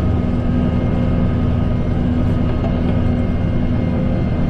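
Kubota M7060 tractor's four-cylinder diesel engine running at a steady speed while it drives a snowblower, a constant even drone.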